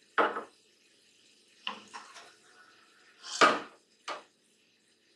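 A spoon scraping and knocking against cookware in four short strokes, the one about three and a half seconds in the loudest, as spice masala is spooned over rice.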